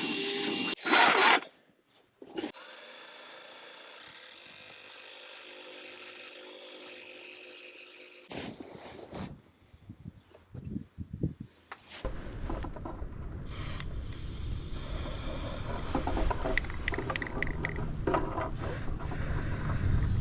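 Power tools drilling and cutting through the van's floor in short edited clips. A steady hum runs for several seconds, scattered knocks follow around the middle, and a louder, rougher stretch of cutting fills the last several seconds.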